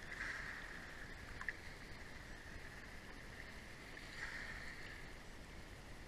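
Faint sea water washing along the shore, swelling twice, about four seconds apart.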